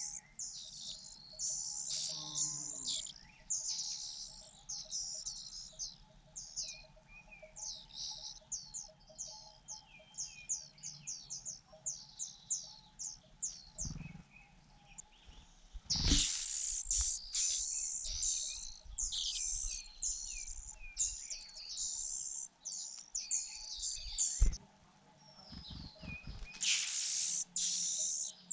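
Fujian niltava nestlings begging with high-pitched chirps that come in runs of rapid short calls and louder bursts. A few soft knocks sound in among them.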